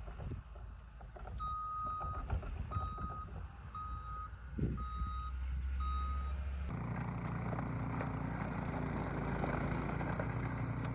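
A vehicle's reversing alarm beeping five times, about one beep every 0.7 s. From about 7 seconds in, a steady engine drone with a noisy hiss takes over.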